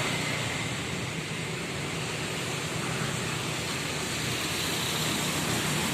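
Steady, loud rushing noise with a low rumble underneath.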